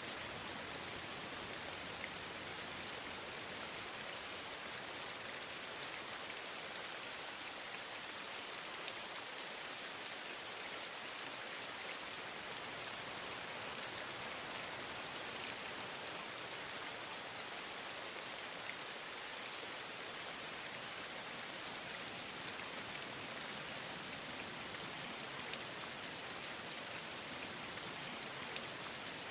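Steady rain falling, an even hiss with many small raindrop ticks scattered through it.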